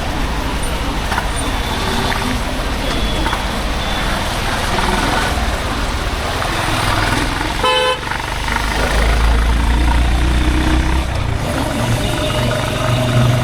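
Honda H'Ness CB350's single-cylinder engine and exhaust running on the move in traffic. A short vehicle horn toot sounds about eight seconds in, after which the engine note grows louder.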